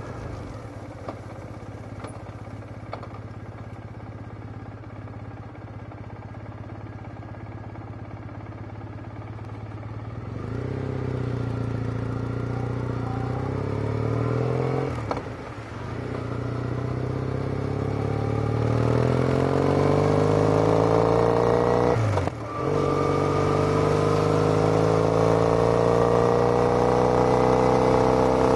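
Triumph Bonneville's parallel-twin engine breathing through aftermarket TOGA slip-on silencers. It runs steadily at low revs for about ten seconds, then pulls away, climbing in pitch. Two brief dips come at the upshifts, each followed by another climb.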